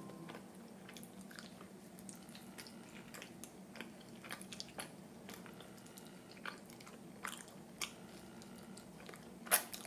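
Close-miked biting and chewing of a chewy red-bean-filled rice cake (jeolpyeon), with small wet mouth clicks scattered throughout and a sharper click near the end.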